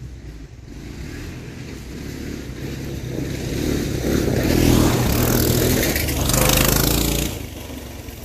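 Small engines of a mini bike and a three-wheeler racing toward and past close by. The engine noise builds to its loudest about halfway through, with two peaks, then drops away sharply about seven seconds in.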